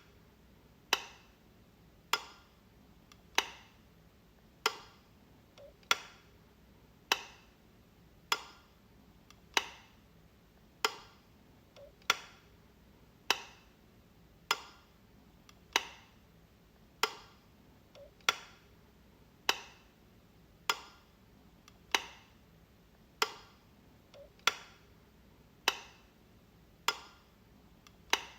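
A light switch clicking over and over, one sharp click about every 1.2 seconds at a steady, even pace.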